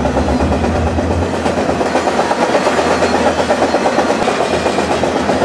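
Steady running noise of a moving freight train, heard from the open end platform of a freight car: wheels running on the rails beneath.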